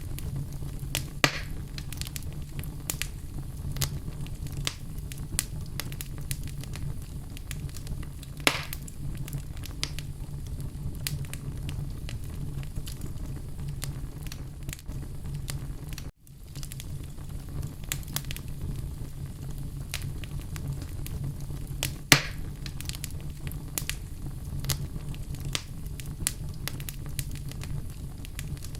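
Wood fire burning in a fireplace: a steady low rumble of flames under constant small crackles, with three louder pops spread through. The sound cuts out for a moment about halfway through.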